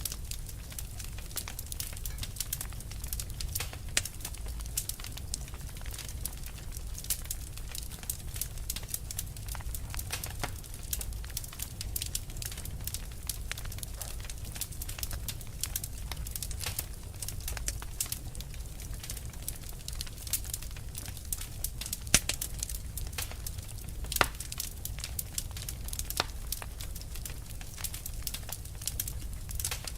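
Wood fire burning with dense, irregular crackling and snapping over a low steady rumble, with a couple of louder pops about two-thirds of the way through.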